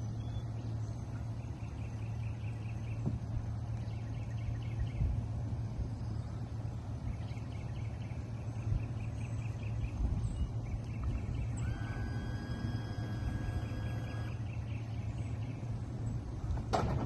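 A steady low hum from a running motor, with a bird calling in repeated short phrases of rapid chirps, and a sharp knock near the end.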